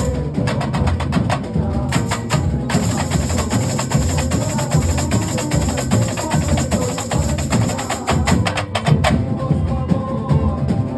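A carnival comparsa drum section (batería) playing together: deep bass drums under a fast, dense pattern of sharp, high clicking strokes, with a brief thinning of the high strokes near the end.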